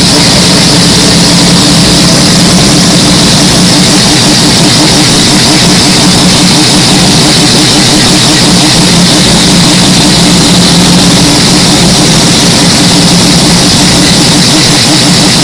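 Mazda 767B's four-rotor engine running steadily at a constant pitch, with no revving up or down. The sound is very loud and overdriven.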